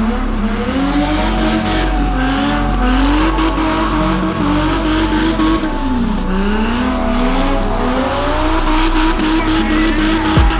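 BMW E30's M50 inline-six revving hard during a drift run, the revs rising and falling again and again, with tyres squealing.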